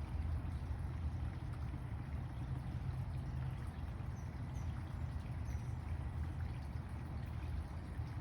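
Steady low rumbling outdoor background noise, with a few faint, short high chirps.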